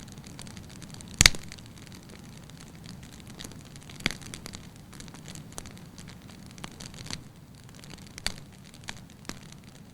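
Burning firewood in a fireplace crackling lightly over a low steady hiss of flame, with scattered sharp pops, the loudest about a second in and others near the middle and near the end.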